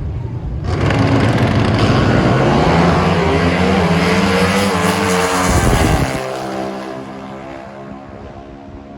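Pro Stock drag-racing motorcycles at full throttle down the strip: a loud engine sound starts suddenly about a second in and climbs steadily in pitch for several seconds. About six seconds in it drops off sharply and then fades away.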